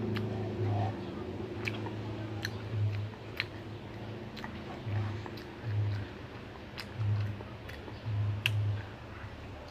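A young child chewing a mouthful of rice and fried chicken, with sharp mouth clicks and lip smacks about once a second.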